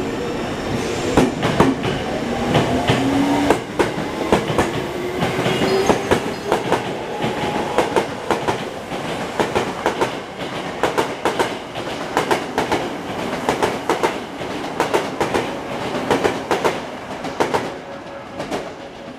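Tokyo Metro 07 series electric train pulling away and accelerating past, its motor whine rising in pitch over the first few seconds. The whine gives way to a rapid clatter of wheels over rail joints that eases near the end as the train draws away.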